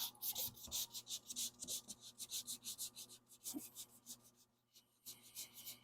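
Worn 400-grit sandpaper rubbed back and forth over a car's painted body panel in quick, even strokes, with a short pause about four seconds in. The sanding is knocking down a run in the white paint.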